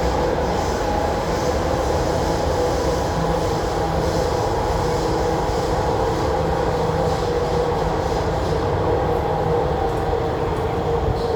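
MTR Tuen Ma line IKK-Train electric multiple unit running at steady speed, heard from inside the carriage: a continuous rumble of wheels on rail with a steady hum.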